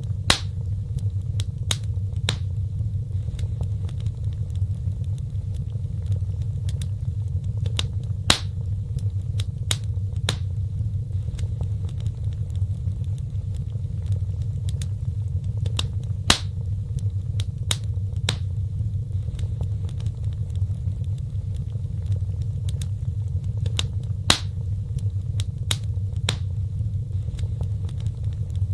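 Wood fire burning in a fireplace: scattered sharp crackles and pops over a steady low rumble, with four louder pops about eight seconds apart.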